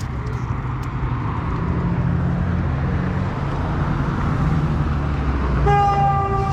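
Car engine running with a steady low rumble. Near the end a short, steady pitched tone sounds over it.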